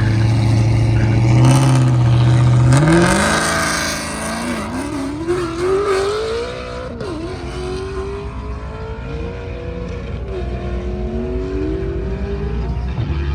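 Sports car engine held at steady high revs, then launching: the note climbs sharply about three seconds in, and the car accelerates away shifting up through several gears, each rising pitch dropping back at the change, growing quieter as it goes.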